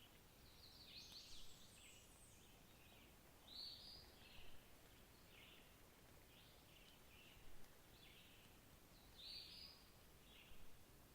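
Faint bird calls over a quiet background hiss: short high chirps repeated every second or so, several birds, with a couple of brighter, louder notes.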